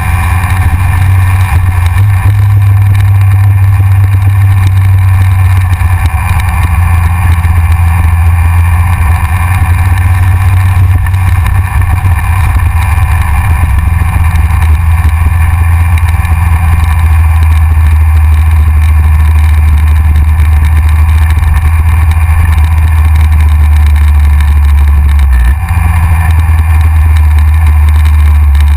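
Yamaha XJR motorcycle's inline-four engine running at road speed, heavily overlaid by wind rushing over the front-mounted GoPro. The engine note changes briefly near the end.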